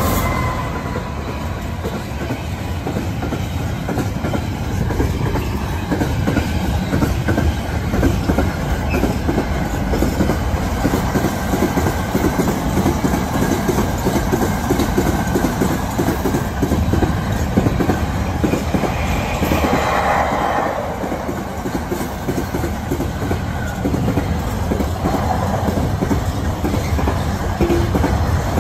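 GBRf Class 66 diesel freight locomotive passing at the start, followed by a long train of intermodal container wagons rolling by, their wheels clacking rhythmically over the rail joints.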